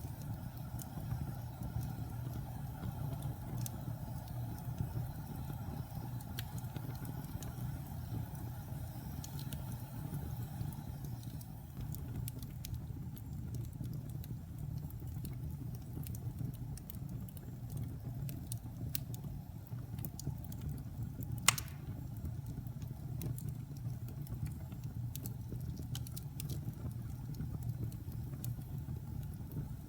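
Wood fire in a fireplace burning with a steady low rumble and scattered small crackles, with one sharp pop about two-thirds of the way through.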